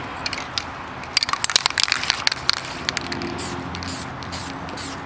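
A run of sharp crackles and crinkles, then from about three seconds in a series of short hissing spray bursts as CRC mold cleaner is sprayed onto the axe head to dissolve its SP400 rust-preventive coating.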